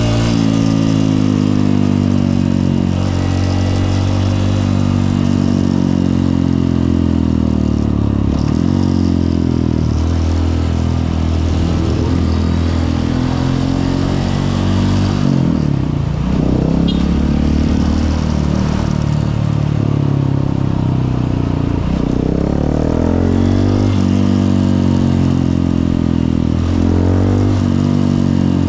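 Honda CRF150L's single-cylinder four-stroke engine running under way, its note rising and falling with the throttle and dipping briefly about 16 and 22 seconds in.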